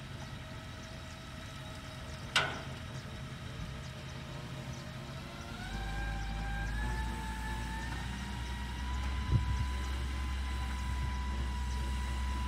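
Vehicle engine running with a steady whine, a single sharp knock about two seconds in, then a heavier low rumble as the whine climbs in pitch in steps and holds steady.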